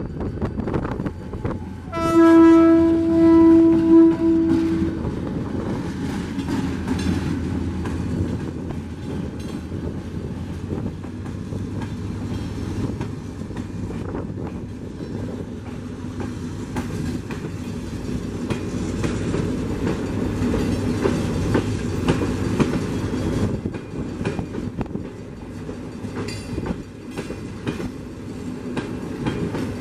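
EMD GT22CW diesel locomotive sounding its horn in one long steady blast about two seconds in, a greeting to the trackside watcher. Then its passenger coaches roll past with a steady rumble and the clickety-clack of wheels over rail joints.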